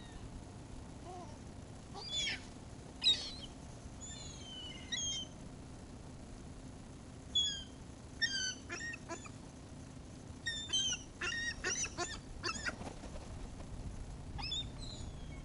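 Seagulls calling: a string of short, high-pitched cries that come thicker and faster from about eight seconds in, several birds calling over one another.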